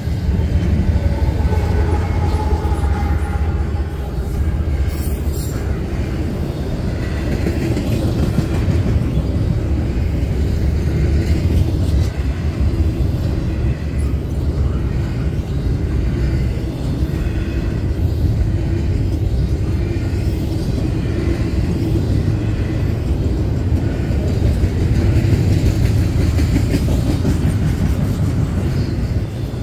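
Double-stack intermodal container train passing close at speed: a steady loud rumble of steel wheels on rail from the well cars going by.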